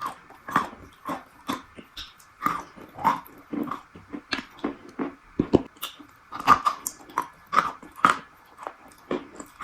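Close-up chewing of a crunchy strawberry treat: a string of sharp, uneven crunches, roughly two a second.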